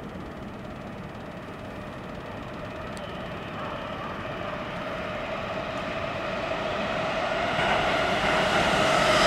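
Electric commuter train approaching, growing steadily louder, with a hum of several steady tones rising out of the rail noise as it nears.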